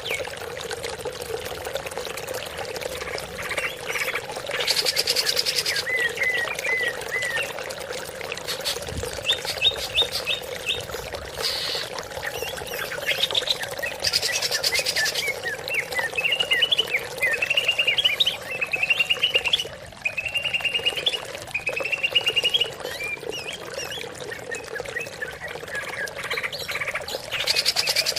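Greater green leafbird (cucak ijo) singing a long, varied string of quick whistled phrases and rapid trills, broken by a few short bursts of high, buzzy, fast-repeated notes. A faint steady hum runs underneath.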